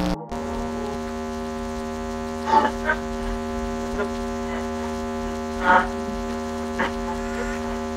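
A steady droning tone held on one note with a rich stack of overtones. Short sharp sounds break in over it: two close together about two and a half seconds in, a louder one near six seconds, and a fainter one about a second after that.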